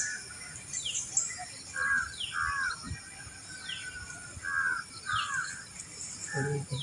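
Crows cawing, short calls mostly in pairs and repeating every second or so. Another bird gives a short falling whistle about every second and a half, over a steady high insect drone.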